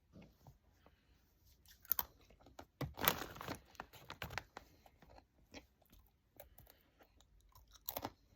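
Hard pretzels being bitten and chewed: irregular crunching and crackling, loudest about three seconds in.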